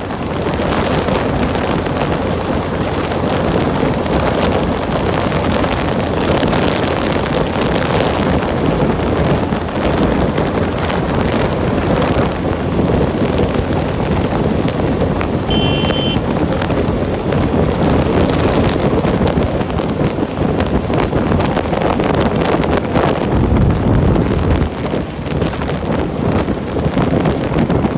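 Wind buffeting the microphone on a moving bicycle, a steady rushing noise, with a brief high-pitched tone about halfway through.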